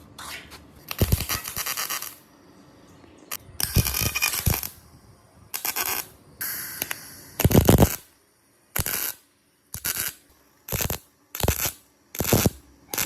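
A series of about a dozen short bursts of scraping and clinking, separated by brief gaps, several of which drop abruptly to dead silence.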